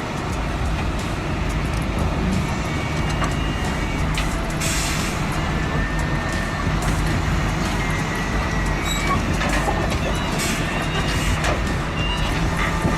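Heavy truck engine running steadily, with a short burst of hiss about five seconds in.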